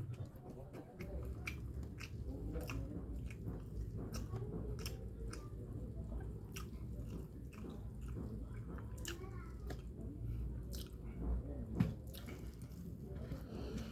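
Close-up chewing and wet mouth clicks of someone eating egg noodles and rice, with irregular sharp clicks several times a second and one louder click near the end.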